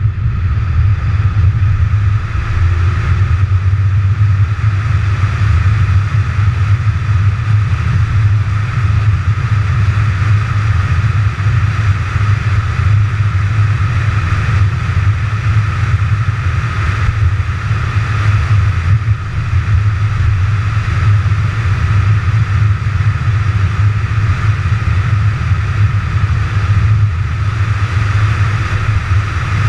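McLaren 570GT's twin-turbo V8 running at a steady cruise: a constant low drone with a steady hiss of road noise over it.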